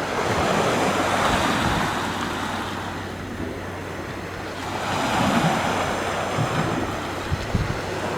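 Sea waves washing in, the surf swelling twice about four seconds apart, with wind buffeting the microphone in low thumps near the end.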